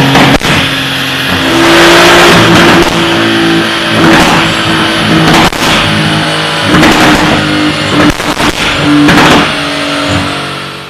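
Porsche 991.2 Carrera S twin-turbo flat-six with an Armytrix exhaust, revving loudly on a dyno. It is held at high rpm for a second or two at a time, dipping and climbing again, with several sharp cracks from the exhaust along the way.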